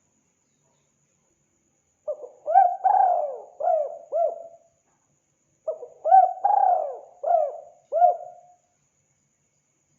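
Spotted dove (tekukur) cooing: two phrases of several hooting coos, one starting about two seconds in and another about six seconds in, with silence between.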